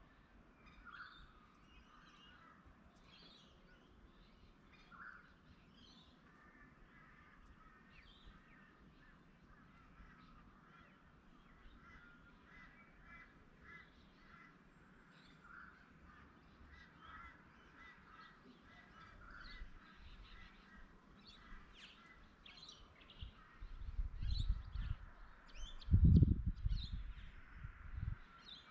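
Wild birds calling and chirping, with a few low thumps near the end.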